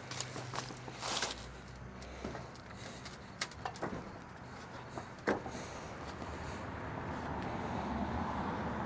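Scattered light clicks and knocks of hand work on car parts, over a steady low vehicle engine hum that slowly grows louder in the last few seconds.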